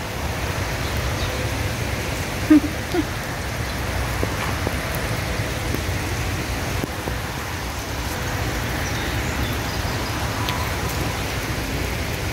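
Steady rain falling on wet pavement, a constant even hiss, with two brief low hums about two and a half and three seconds in.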